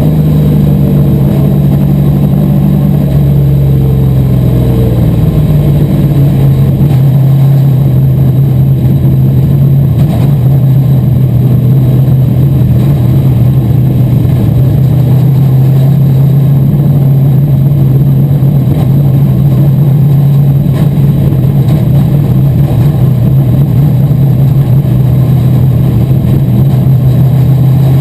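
Asphalt modified race car's V8 engine running loud at nearly steady revs. Its pitch eases down over the first few seconds and then holds level.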